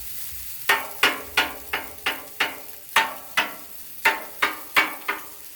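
Metal spatula chopping down on the steel top of a Blackstone griddle to break up fried rice: a run of about a dozen ringing clanks, roughly three a second.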